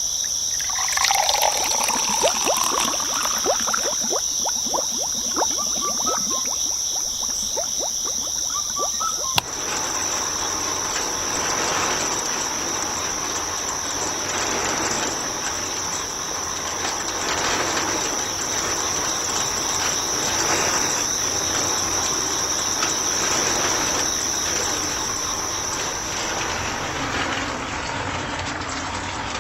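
A steady high-pitched trill like insects, with water splashing and pouring over it. The sound changes abruptly about nine seconds in to a steadier rushing, pouring noise.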